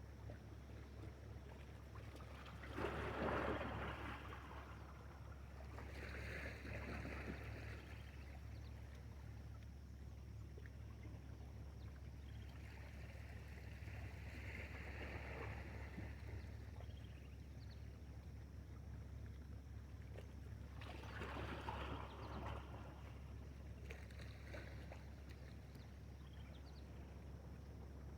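Water splashing and sloshing, with two louder splashes about three seconds in and again about twenty-one seconds in, over a steady low hum.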